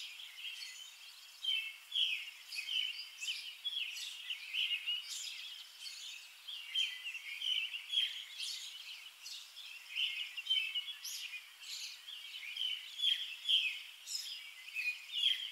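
Small songbirds chirping: a continuous run of short, high calls, several each second.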